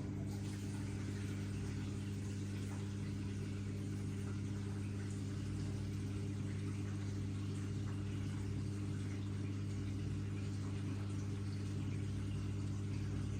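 Miele W1 Active washing machine running with a steady, even low hum.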